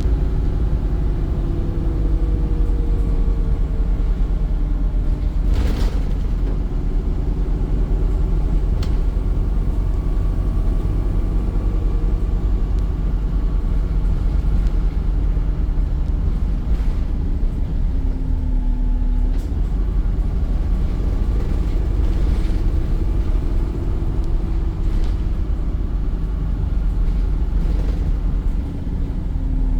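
Volvo B5 bus running along, a steady low rumble with drivetrain tones that slowly rise and fall as its speed changes, and brief knocks and rattles now and then.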